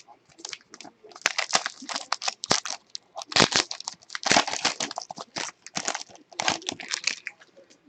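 A trading-card pack wrapper crinkling and tearing as the pack is opened and handled, in a run of irregular crackles that stops a little after seven seconds.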